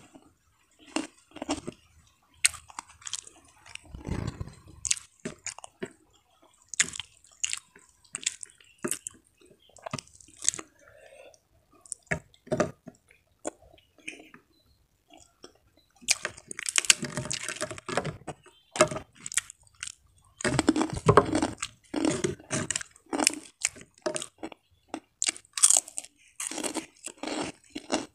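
Close-up chewing and crunching of a mouthful of rice, greens and fried crackers, in short irregular crisp crunches with denser runs of crunching past the middle and near the end.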